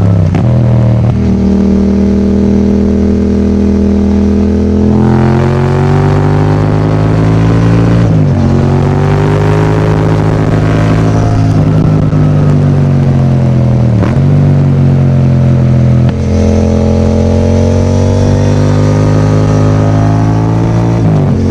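Yamaha MT-07's parallel-twin engine running through an Akrapovic titanium exhaust while the bike is ridden. The note is steady and deep and gets fuller about five seconds in, then dips sharply in pitch three times and recovers each time.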